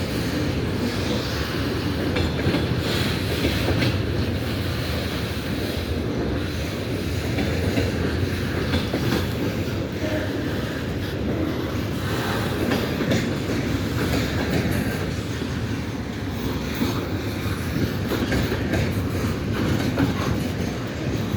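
Freight train wagons rolling past with a continuous clatter of wheels on the rails.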